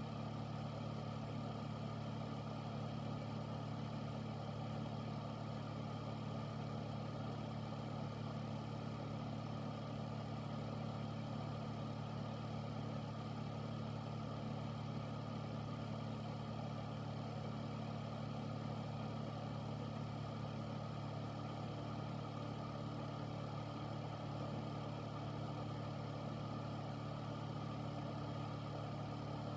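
Air filter unit running steadily: an even rush of moving air over a low, constant motor hum.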